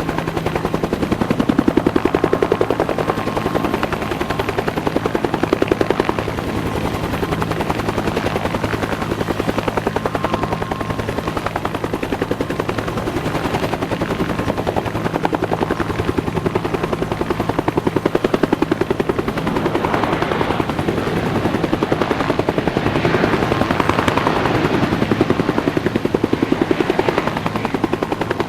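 Bell UH-1H Iroquois (Huey) helicopter running, its main rotor beating in a fast, even rhythm, swelling louder for a few seconds near the end.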